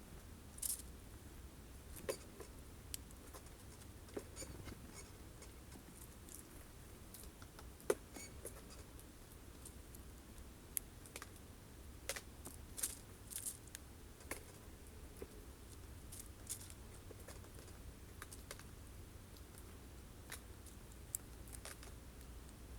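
Faint, irregular clicks and taps of birds pecking and picking at sunflower seeds on a wooden bird feeder, with a few sharper knocks, over a steady low rumble.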